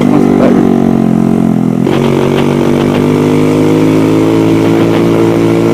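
Dirt bike engine running steadily under way, its note holding level, with a brief change in the engine note about two seconds in.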